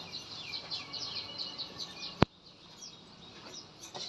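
Small birds chirping rapidly and continuously, with a single sharp click about two seconds in, after which the chirping is fainter.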